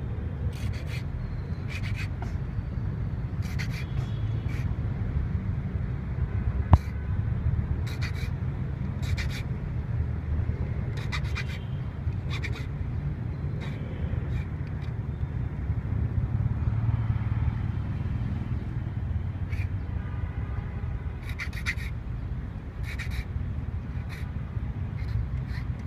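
Short metallic scrapes and clicks, repeated irregularly about once a second, as a Lishi 2-in-1 pick works the wafers of a Chevrolet Spark door lock, with one sharper click about seven seconds in. A steady low rumble runs underneath.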